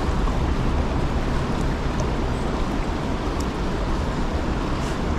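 River current rushing steadily, a constant noise with a heavy low rumble.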